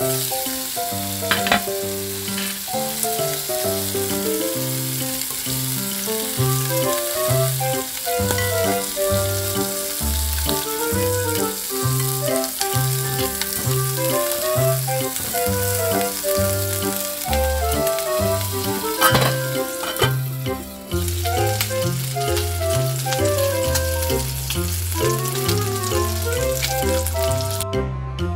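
Chicken skewers sizzling as they fry in a frying pan, under background music with a steady stepping bass line. The sizzling dips briefly about twenty seconds in and stops shortly before the end.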